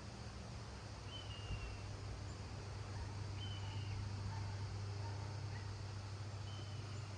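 Gusty wind blowing, a steady noisy rush with a low rumble that swells a little midway. Faint short high chirps sound a few times over it.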